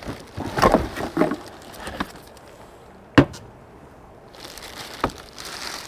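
Cardboard shipping box and packaging being handled and opened: a sharp knock about three seconds in, a softer one a couple of seconds later, and rustling and crinkling of packaging near the end.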